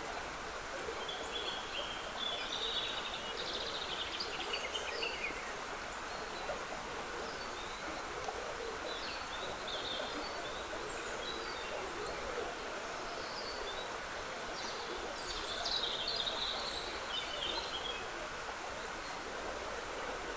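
Woodland stream trickling steadily, with songbirds singing short high phrases over it, most strongly a couple of seconds in and again about three-quarters of the way through.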